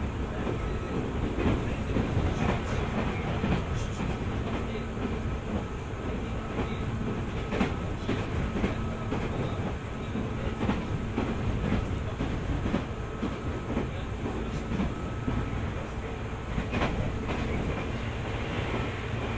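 JR 205 series 600 subseries electric train running along the line: a steady rolling rumble with a faint steady whine and irregular clicks of the wheels over rail joints.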